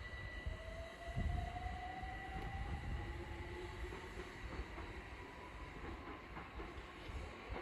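London Overground Class 378 electric train pulling away, its traction motors giving a whine that rises steadily in pitch as it accelerates, over a low rumble.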